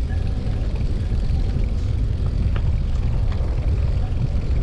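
Steady wind rumble buffeting the microphone of a moving bicycle, with a couple of faint ticks in the middle.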